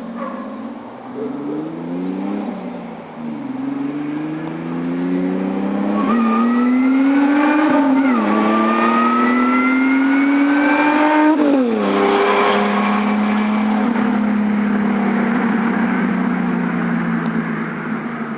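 Supercharged Ford Ranger 4.0 V6 through Flowmaster 44 mufflers and an X-pipe, accelerating hard. Its note climbs and drops back several times as it shifts up through the gears, then holds steady and eases off near the end.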